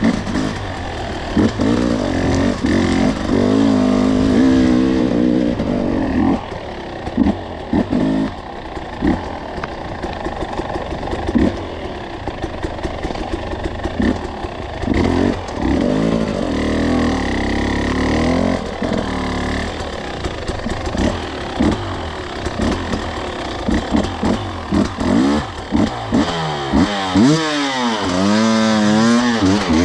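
Two-stroke dirt bike engine being ridden, its pitch rising and falling as the throttle is opened and closed, with a run of quick revs up and down near the end. Frequent short knocks and clatter sound through it.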